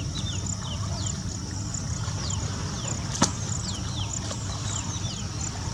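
Waterside outdoor ambience: many short, high chirps falling in pitch, a few each second, over a steady low rumble and a thin high hiss, with one sharp click about three seconds in.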